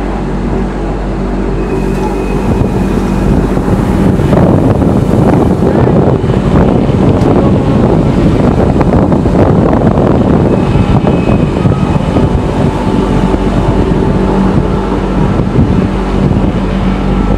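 Train running, heard from on board: a steady rumble with a low motor hum, growing louder about four seconds in and easing slightly near the end.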